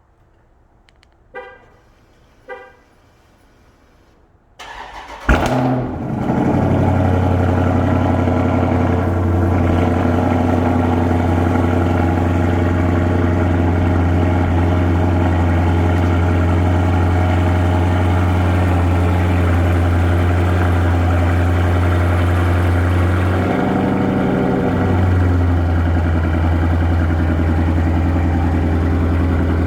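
Two short chirps, then a Dodge Charger SRT's HEMI V8 cranks and fires on a cold start with a sharp flare. It settles into a loud, steady high idle that briefly drops in pitch about twenty-four seconds in, then steadies again.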